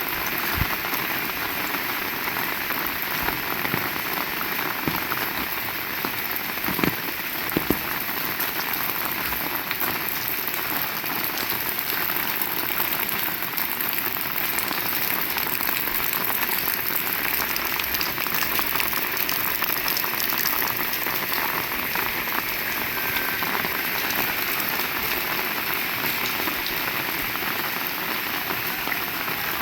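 Heavy rain falling steadily: a dense, even hiss of rain on surfaces, with a few louder drop hits standing out around seven to eight seconds in.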